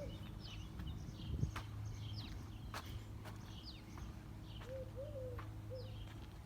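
Birds chirping outdoors in short, high, downward-sliding calls, with three low coos about five seconds in. A few soft footsteps and a steady low hum sit underneath.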